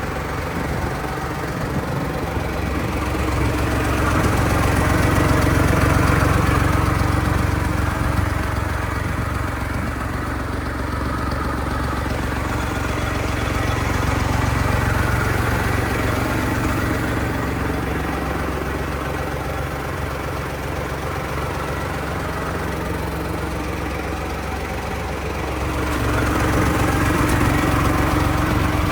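Massey Ferguson MF40 tractor engine running steadily at low speed, its level swelling a little twice, a few seconds in and again near the end.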